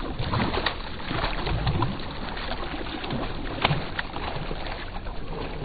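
Water sloshing and splashing around a kayak, with a few light knocks and clicks against the hull and gear.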